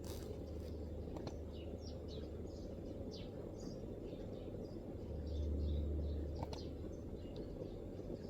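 Small birds chirping in the distance, short scattered calls over a steady low background rumble. A deeper rumble swells up about five seconds in and fades again, with a few faint isolated clicks.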